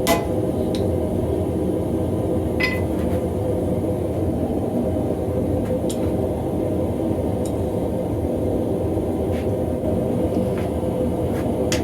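Steady low roar of a running blacksmith's forge, with a few light metal clinks.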